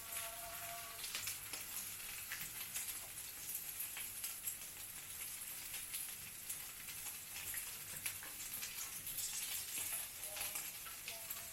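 Food sizzling and frying in a hot pan: a steady hiss with small, irregular crackles.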